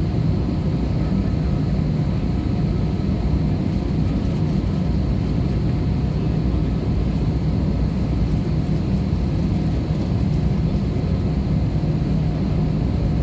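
Steady engine and airflow drone inside the cabin of an Airbus A320-200, an even rush with a low hum that does not change.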